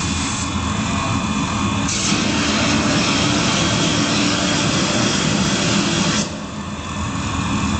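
Scania truck engine running through its exhaust, a loud steady rumble that drops back about six seconds in.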